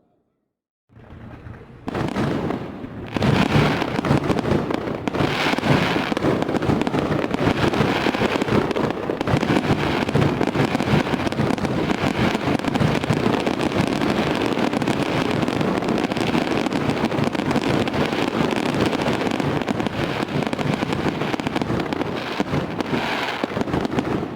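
A dense fireworks barrage: many overlapping bursts and crackles with no gaps between them. It starts after about a second of silence, quickly rises to full level and stays there.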